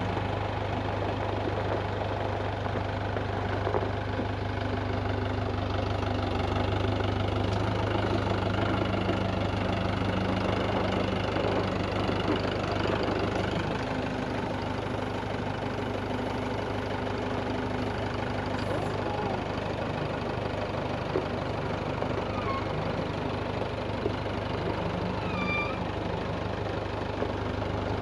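Engine running steadily at an even speed, with a low hum that holds throughout.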